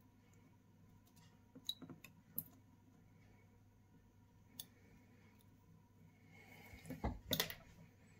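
Faint, sharp clicks and taps of small tools and parts being handled on a repair bench: a few in the first half, and a louder cluster of knocks near the end.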